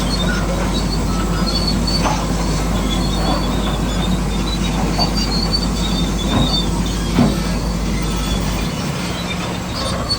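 Radio-controlled model construction machine at work, most likely the bulldozer: a steady whir of small motors and gears, with short high squeaks and a few light knocks.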